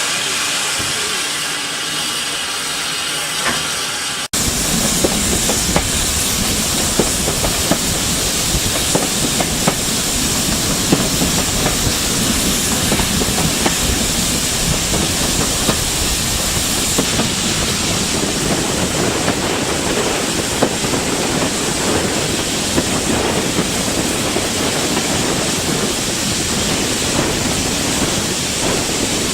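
Steam hissing for the first four seconds; then, after an abrupt cut, a steam-hauled train running along the track, with a steady rushing noise and many sharp wheel clicks over the rail joints.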